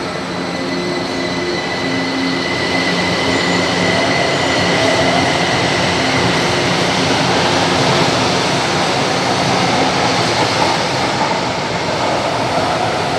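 São Paulo Metro Line 2 train moving through the station: loud, steady rolling and wheel noise, with a thin high whine and a low hum in the first few seconds that fade.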